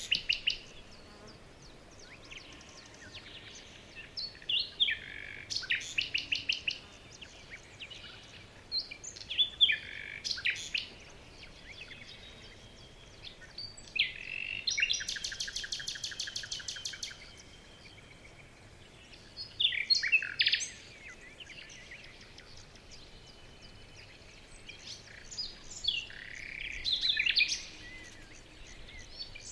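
Several songbirds singing and chirping in turns in a forest, in short phrases a few seconds apart, one of them a fast trill of rapid repeated notes lasting about three seconds, over a faint steady hiss.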